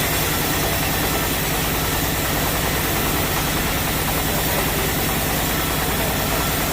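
Sawmill machinery running steadily with a constant low engine-like hum and a broad even noise over it.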